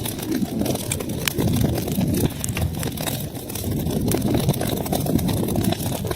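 Wood fire crackling in a fireplace: a steady low rumble of burning, with frequent sharp crackles and pops scattered through it.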